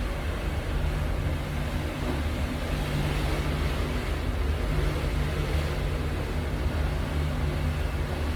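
Strong wind rushing over the microphone: a steady, buffeting low rumble with a hiss above it.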